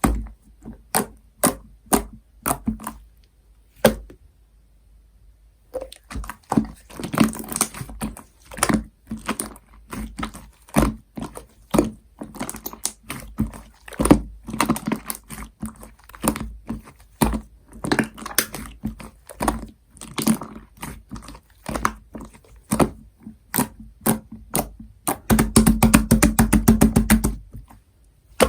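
Clear slime mixed with shaving foam being kneaded and pressed by hand, making sharp, wet clicks and pops in an irregular stream. Near the end comes a fast run of clicks, about ten a second, for about two seconds.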